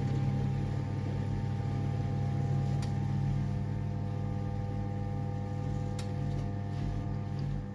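1978 Siemens WA4600 washing machine running with a steady low motor hum and a couple of faint clicks.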